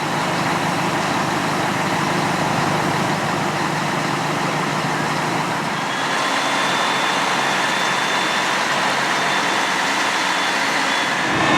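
Fire truck engine running steadily, with a faint high steady tone joining about six seconds in.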